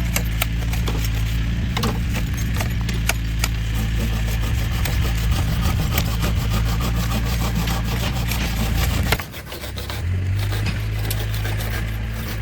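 A motorised tool running steadily while cutting or grinding wood, with constant scraping and crackling over its hum. It stops about nine seconds in, and a second after that a motor starts again at a different, steadier pitch.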